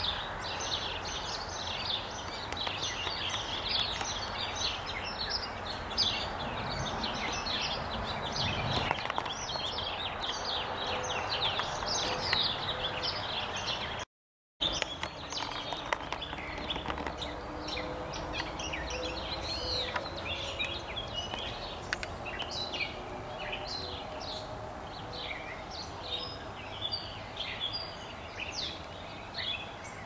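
Several birds singing and chirping continuously over a steady outdoor background hiss, with the sound dropping out completely for a moment about halfway through.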